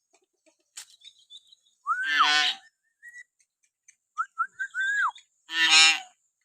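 Hill myna whistling. About two seconds in comes a rising-then-falling whistle, run straight into a harsh, many-toned call. Near the end a quick run of short whistle notes ends in another rise-and-fall whistle, and a second harsh call follows.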